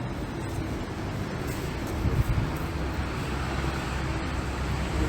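City street traffic: a steady rumble of passing cars, a little louder about two seconds in.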